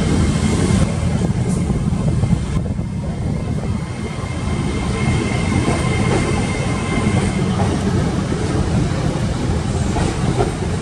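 LNER Azuma Class 800 bi-mode train pulling slowly out of the station, its carriages rolling past with a steady rumble of wheels on rails. A thin, steady high tone rides over the rumble through the first half.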